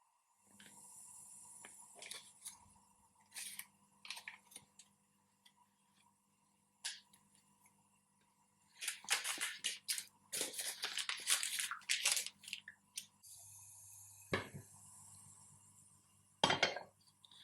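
Kitchen handling sounds: scattered clicks and knocks, then a few seconds of dense clattering and crunching about halfway through, over a low steady hum.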